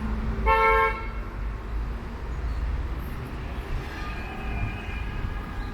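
A single short vehicle horn toot about half a second in, over a steady low rumble of traffic.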